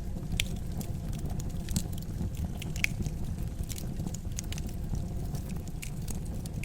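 Wood fire crackling, with irregular small snaps and a few sharper pops over a low steady rumble of the flames.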